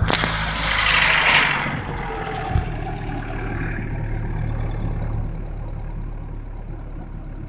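Daewoo Lanos 1.5 four-cylinder engine idling from cold, with the knock it makes when cold. A rush of noise fills the first two seconds, and there is a short thump about two and a half seconds in.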